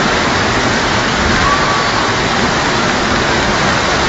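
Steady, loud rush of water during a heavy rainstorm and flood, an even noise without pauses.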